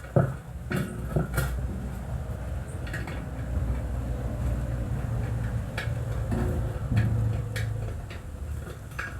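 Metal tools clinking and knocking in scattered sharp strikes during work on a Honda Biz scooter tyre, over a steady low rumble that swells in the middle.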